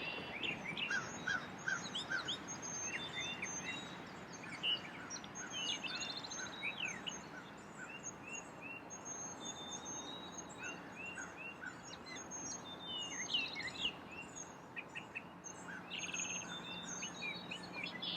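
Several wild birds calling and singing at once: a busy mix of short chirps, quick whistled notes and brief trills, some repeated in fast series, over a faint outdoor background.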